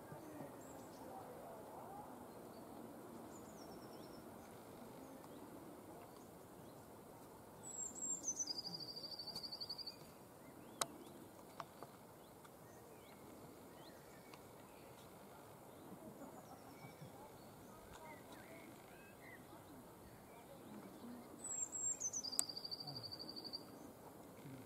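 A songbird singing the same short phrase twice, about 13 seconds apart: a quick falling note dropping into a fast, even trill. Fainter bird calls come in between, and there is one sharp click just after the first phrase.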